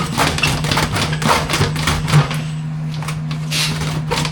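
Rotary dryer-vent cleaning brush spinning on its rods inside the duct: fast, irregular knocking and rattling over a steady motor hum.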